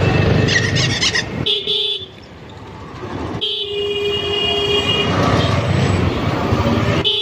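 Vehicle horns honking in road traffic over the rumble of a moving motorcycle. There are short toots in the first two seconds and a longer horn blast from about three and a half to five seconds in.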